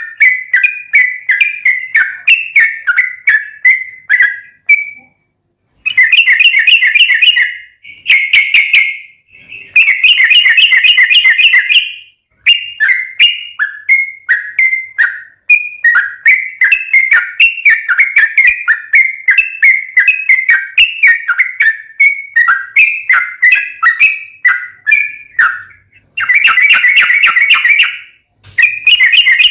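Yellow-vented bulbul (trucukan) singing loudly: rapid bubbly chattering phrases of short, repeated notes, broken by brief pauses, the kind of song played as a trapping lure.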